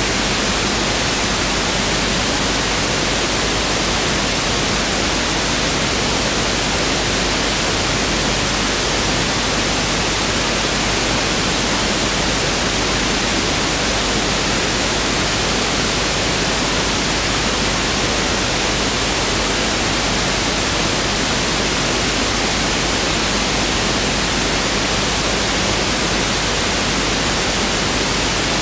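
Pink noise test signal: a steady, even hiss with equal energy per octave (1/f), unchanging throughout.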